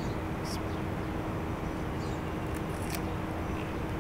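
Steady outdoor background noise with a faint low hum, over which come a few faint crisp clicks as a firm, unripe green date is bitten into and chewed.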